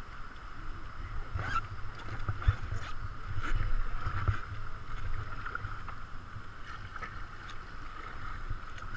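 Kayak on a river: water rushing and splashing around the hull, with scattered short clicks and splashes from paddle strokes and a low wind rumble on the microphone.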